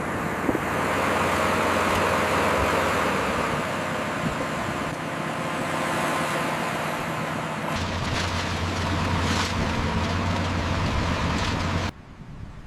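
A heavy engine, like construction machinery, running steadily with a low hum under a wash of noise. It shifts to a stronger, deeper hum about two-thirds of the way through, then cuts off abruptly near the end, leaving a quieter wind-like hiss.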